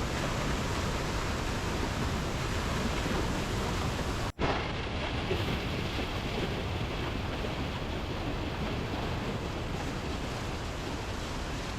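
Steady rushing noise of the River Nile's falls and rapids. It cuts out for an instant about four seconds in, then carries on.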